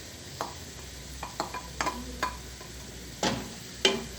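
A utensil knocking and clinking against a cooking pot and bowl, about eight sharp taps with the loudest two near the end, as sliced leeks are added to onion frying in butter and olive oil, with a faint sizzle underneath.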